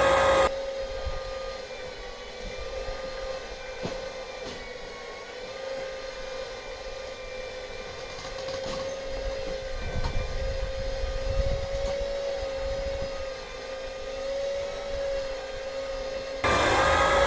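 Electric winch on a Jeep Wrangler running under load, a steady whine that wavers slightly in pitch as it pulls a car through a pulley redirect.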